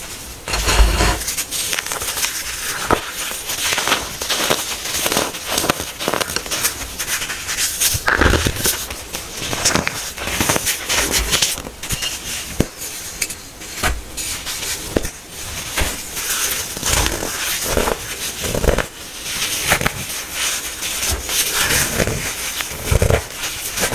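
Hardened baking soda being crushed: a continuous crackly crunching full of small sharp cracks and gritty scraping.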